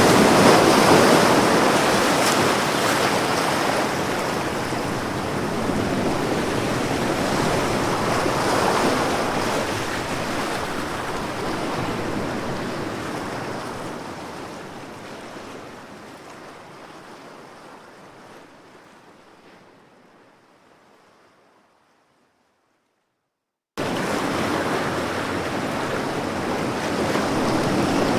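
Ocean waves washing onto a shore, a steady surf with slow swells. Near the middle the sound fades away gradually to silence, then after a short gap the surf starts again suddenly at full level, as at the loop point of a recording.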